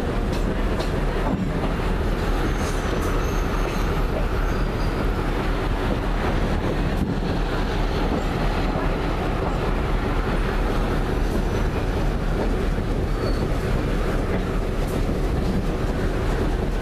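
Passenger train rolling steadily along the track, heard from an open side of the car: a continuous low rumble of wheels on rail with faint clicks from the rail joints.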